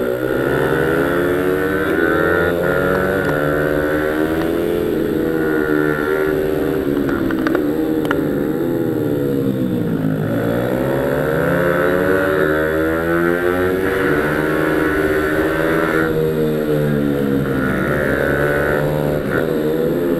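Pit bike (mini supermoto) engine under hard use, its pitch climbing and dropping again and again as the throttle opens and closes, with the deepest dips about ten seconds in and near the end.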